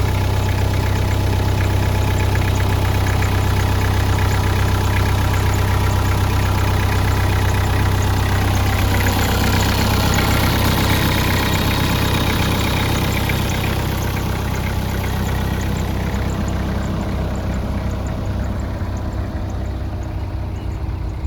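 Caterpillar 305 mini excavator's diesel engine running steadily with a strong low hum. It grows somewhat quieter over the last several seconds.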